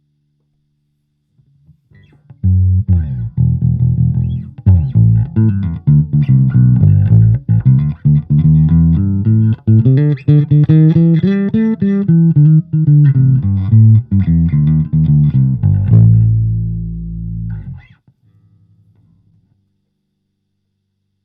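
Electric bass guitar played through a Fender Rumble 25 bass amp: a busy run of plucked notes that starts a couple of seconds in and ends on a held low note, which fades and then stops. A faint low hum from the amp can be heard before and after the playing.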